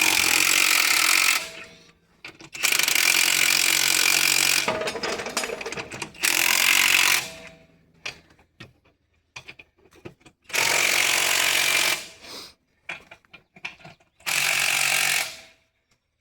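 Impact wrench running in bursts of one to two seconds, about five times, with clicks and clatter between: lug nuts being driven onto the wheel of a big mud-truck tire.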